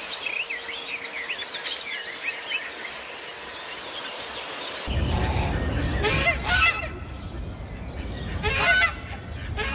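Small birds chirping rapidly over a steady hiss. About five seconds in the sound cuts to a low rumble, with two loud honking calls from farm fowl.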